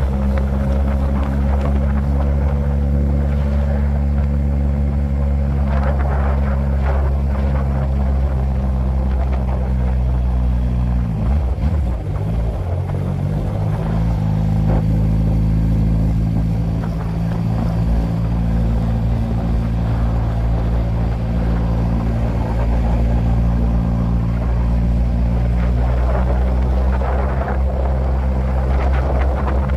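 Suzuki GSX-R SRAD sport bike's inline-four engine running steadily while being ridden. About midway the engine note dips briefly and climbs back up.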